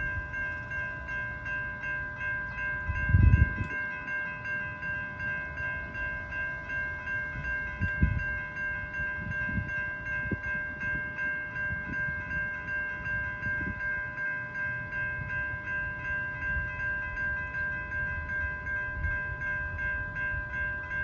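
Railroad grade-crossing warning bell ringing steadily, about two strokes a second, with the crossing signals active for an approaching train. A low rumble runs underneath, with a louder thump about three seconds in and another about eight seconds in.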